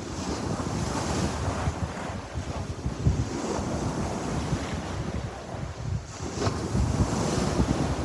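Sea waves washing onto the shore in a steady rushing surf, with wind buffeting the microphone in a low rumble.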